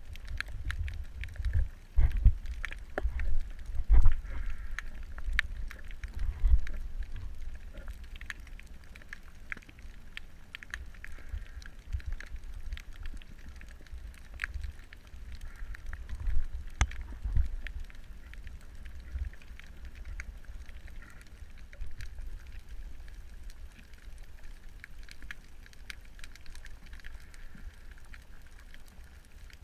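Underwater sound picked up through a camera's housing: a low rumble of water movement with irregular thumps and scattered crackling clicks. The thumps are strongest in the first few seconds and again around the middle.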